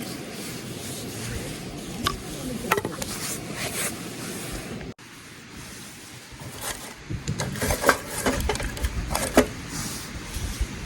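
A knife blade shaving and scraping along wood, as when carving a feather stick, with scattered light knocks and clicks. The sound breaks off suddenly about five seconds in, then the scraping and knocking pick up again.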